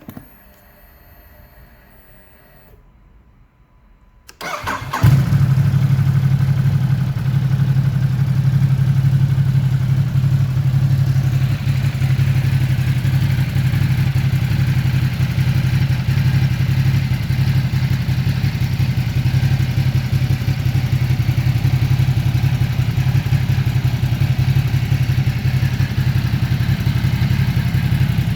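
Ducati Supersport S's 937 cc L-twin engine starting about four and a half seconds in, after a short near-quiet spell with faint steady tones, then idling steadily.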